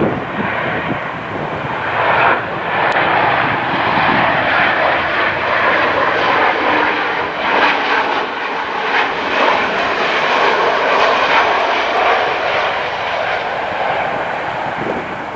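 Jet airliner's engines passing close by: a loud, steady rushing noise that swells about two seconds in and eases off near the end.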